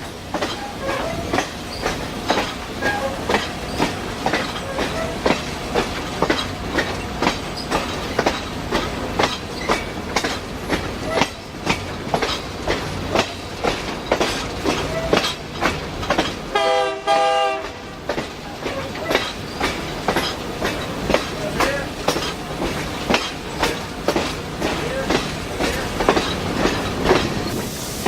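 Passenger train wheels rolling over rail joints in a steady clickety-clack over a continuous rumble. About two-thirds of the way through, a short pitched sound with several pulsing tones lasts roughly a second.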